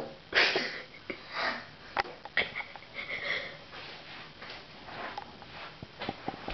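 Short breathy bursts of a person's breath close to the microphone, with a sharp tap about two seconds in and a few faint ticks near the end.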